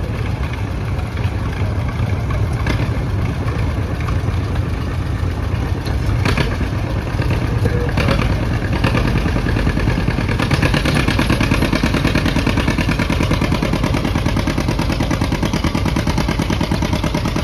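A John Deere 50's two-cylinder engine running under load as the tractor pulls the weight sled. Its firing beat grows louder and stronger from about ten seconds in.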